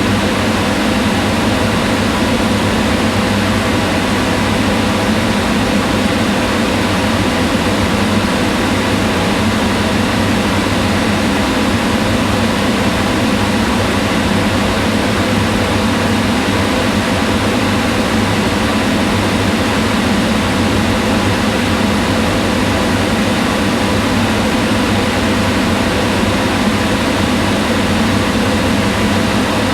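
Kitchen range hood exhaust fan running steadily, a constant whir of moving air with a low hum.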